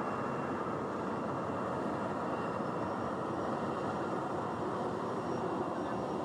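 Meitetsu electric train running, a steady rumble with no clear pitch and no change in level.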